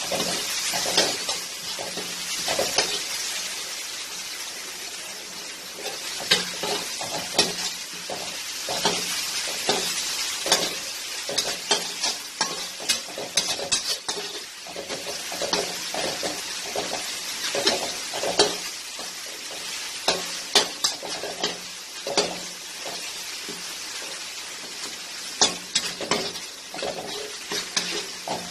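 Ginger-garlic paste frying with onion and tomato in a pan, a steady sizzle with a spatula stirring and knocking against the pan at irregular moments. This is the sauté that cooks off the paste's raw smell.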